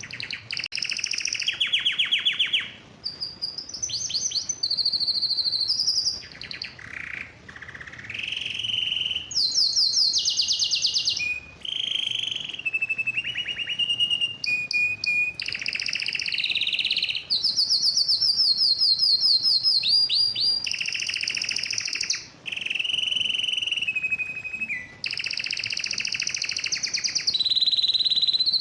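Male domestic canary singing a long song of rapid trills and rolls, each phrase a second or two long at a different pitch, run together with only short breaks. This vigorous song is typical of a male in breeding condition.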